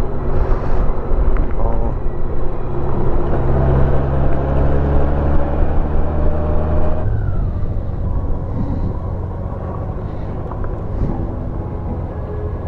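2021 Honda Gold Wing Tour's flat-six engine running at road speed under wind noise, its pitch climbing slowly, then dropping abruptly about seven seconds in as the engine note falls and the sound eases.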